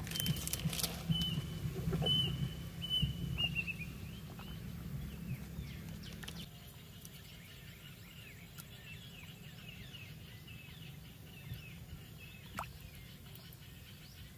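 Small birds chirping in short repeated high notes, with a quick descending trill about three seconds in and scattered chirps throughout. A low hum underlies the first six seconds or so and then drops away, and a few sharp clicks come near the start.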